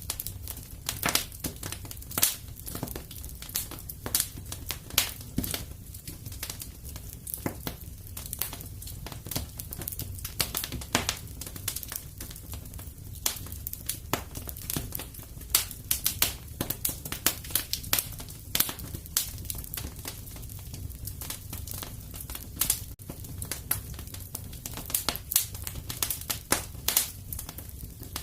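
Wood fire crackling in a fireplace: a steady low rumble of flames with irregular sharp pops and snaps, several a second.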